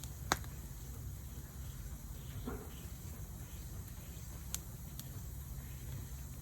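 Wood fire burning, with a sharp crackle a third of a second in and two fainter pops later, over a steady low rumble and a faint hiss.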